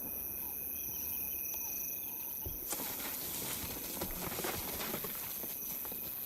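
Steady high chirring of insects. From about two and a half seconds in, dry grass rustles and crackles with soft footfalls as lions move through it.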